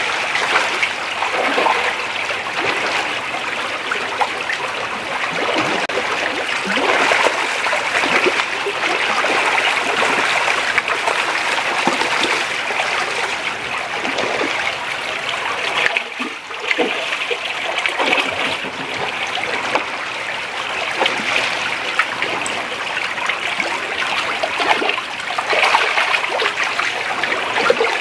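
Creek water flowing steadily, a continuous rushing and trickling with scattered splashes; it drops off briefly about two-thirds of the way through.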